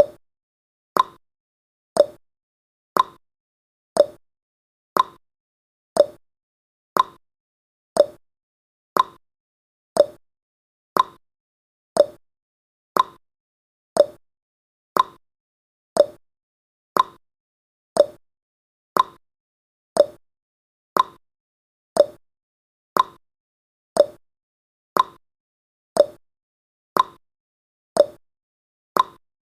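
Countdown timer's clock-tick sound effect: one sharp tick every second, alternating higher and lower in pitch like a tick-tock.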